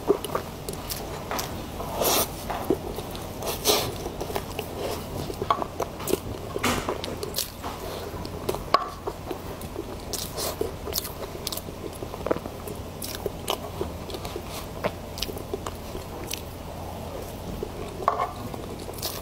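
Close-miked mouth sounds of a person eating soft cream cake: chewing with irregular wet clicks and smacks of the lips and tongue.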